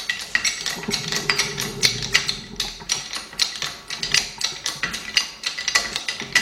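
Rapid, irregular metallic clicking and tapping, several strikes a second, of hand tools knocking against metal parts.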